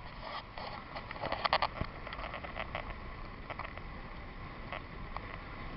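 Water lapping and splashing against a small boat in irregular short knocks and slaps, busiest about a second and a half in, over a steady low rumble.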